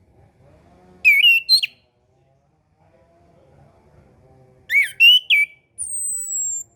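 Orange-headed thrush singing: two short phrases of quick warbled whistles, the first about a second in and the second a little past the middle, then a thin, high whistle that falls slightly near the end.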